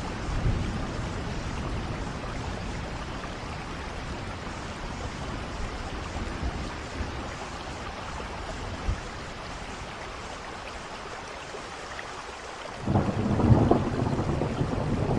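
Steady rain falling, with a roll of thunder fading away at the start and a louder thunder rumble breaking in near the end.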